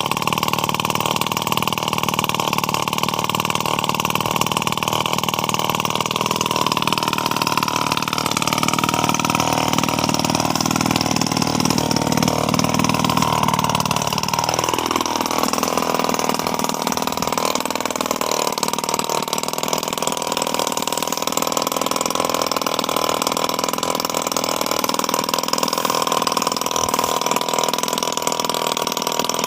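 A small grass-cutter engine running continuously under load. Its pitch climbs gradually through the first half, then drops sharply about halfway, after which the deep low part of the sound falls away and it runs on steadily.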